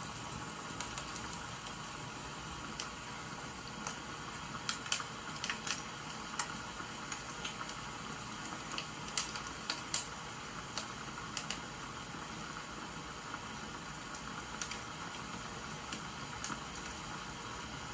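Steady hiss of rain under the irregular snaps and crackles of burning firewood, which come thickest around the middle.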